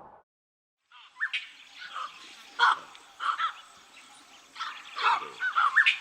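Birds calling: a series of short chirps and squawks with quick rises in pitch, starting about a second in.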